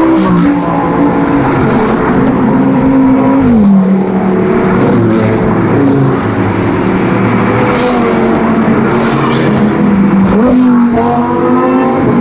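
Lamborghini sports car engine running loudly. Its pitch drops as it eases off about three and a half seconds in, then climbs again near the end as it revs.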